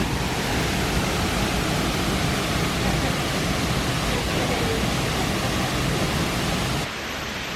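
Waterfall pouring down: a steady, full rushing noise that drops to a quieter level near the end.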